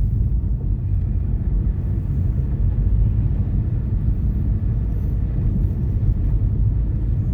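A car driving along, heard from inside the cabin: a steady low rumble of engine and tyre noise.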